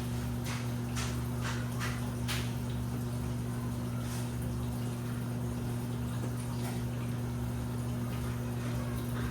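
Washing machine running: a steady low motor hum with water sloshing in the drum, and a few short splashes in the first couple of seconds and once more about four seconds in.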